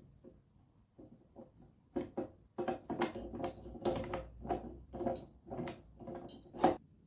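Irregular knocks and scraping strokes of hand work on wood, sparse at first and getting busier about two seconds in, with a sharper knock near the end.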